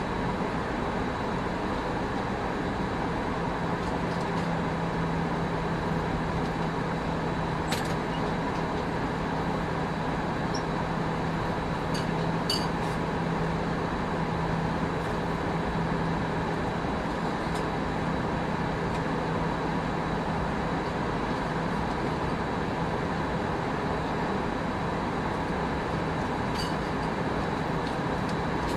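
Steady cabin noise inside an Airbus A319 from a front-row seat: an even rush of engine and airflow noise. A low hum joins it a few seconds in and fades about halfway through, and a few faint ticks come now and then.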